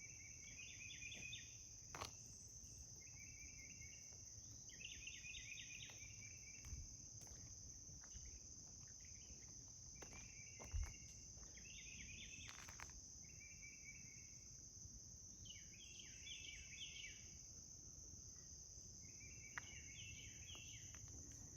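Faint outdoor insect chorus: a steady high-pitched drone of crickets, with short pulsed chirping phrases every few seconds and a couple of faint knocks.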